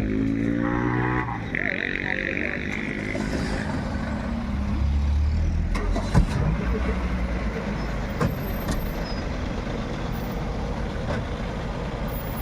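Vehicle engines running amid street noise, with a short hiss about two seconds in and a sharp knock about six seconds in.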